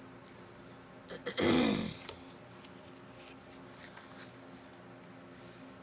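A woman clears her throat once, about a second and a half in: a short, rough sound falling in pitch. Around it only a faint steady hum and a few faint ticks.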